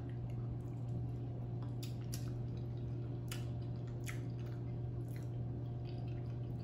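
A person chewing a mouthful of rotisserie chicken dipped in cheese sauce, giving soft, irregular wet mouth clicks and smacks. Under it runs a steady low hum.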